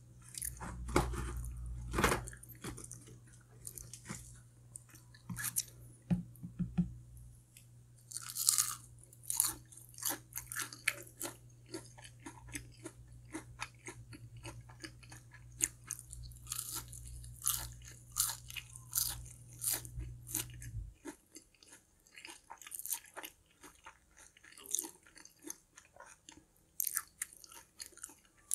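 Close-miked chewing and biting into crispy fried chicken wings, with frequent crunches. A steady low background hum stops about three-quarters of the way through.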